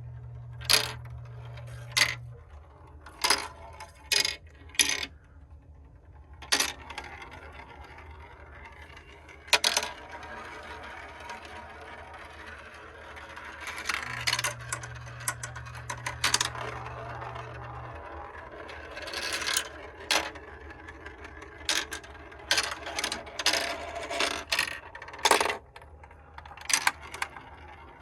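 Marbles rolling and dropping through a Kumon Kumikumi Slope plastic marble run: a continuous rolling rattle with many sharp clicks and clacks as the marbles strike the track pieces. A faint low hum comes in at the start and again about halfway through.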